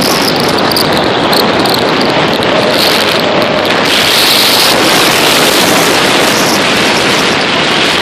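Loud, steady rushing noise of a vehicle on the move in a snowstorm, wind buffeting the microphone. It starts abruptly and grows a little brighter about halfway through.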